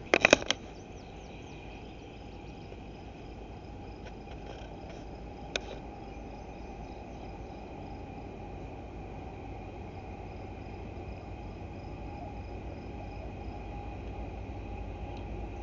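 Steady insect chirping over a low rumble that slowly builds as an approaching freight train draws near. A short burst of sharp knocks just after the start is the loudest thing, and there is a single click about five seconds in.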